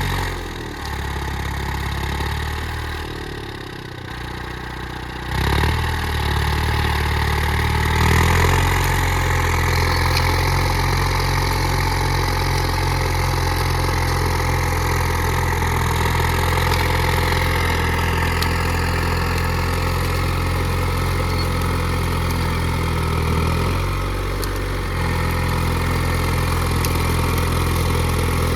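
Allis-Chalmers HD5 crawler's Detroit Diesel 2-71, a two-cylinder two-stroke diesel, running hard and steady. Its revs sag for a few seconds near the start, climb back, and dip briefly once more near the end.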